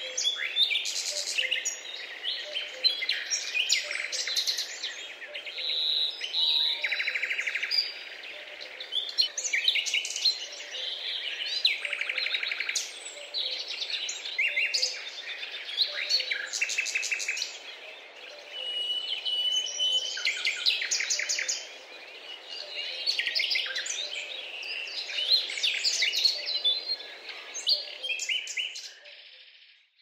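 A chorus of several birds chirping, trilling and whistling over one another, with short calls packed closely together and a faint background hiss; it fades out just before the end.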